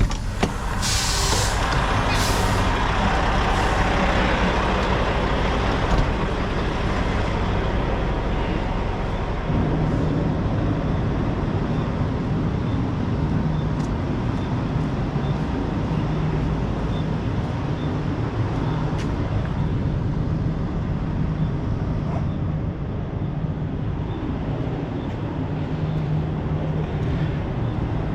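Semi-truck diesel engine running at low speed while the truck is maneuvered. There is a short burst of hiss about a second in, and the engine note changes around ten seconds in.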